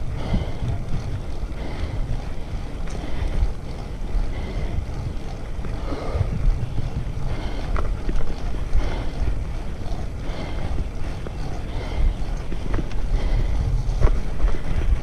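Wind buffeting the microphone of a bicycle rider's camera: a steady low rumble that swells and drops in gusts.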